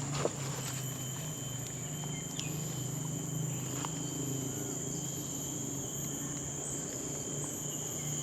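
Steady, high-pitched chorus of rainforest insects holding continuous whining tones, with a low steady hum underneath. A single sharp click sounds just after the start.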